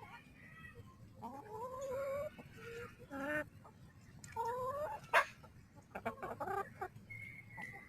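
Chickens clucking while eating scraps, with two drawn-out rising calls and a sharp click about five seconds in.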